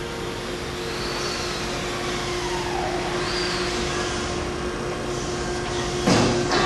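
ACER AGS-2040SD surface grinder's hydraulic motor running with a steady hum, driving the table under hydraulic feed. Faint whines rise and fall in the first half. There is a louder thump about six seconds in.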